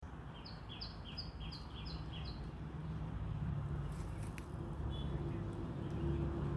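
A bird calling a quick run of six short chirps, about three a second, over a low steady rumble of background noise.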